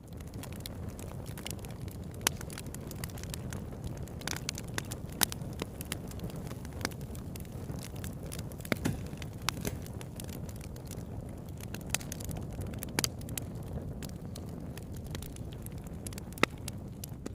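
Wood campfire burning: a steady low rumble of flame with frequent sharp crackles and pops from the burning wood, a few louder snaps standing out.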